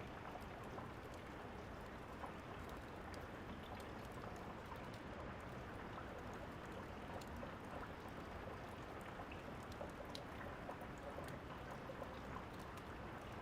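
Steady rain falling, with scattered faint, sharp crackles of a wood fire.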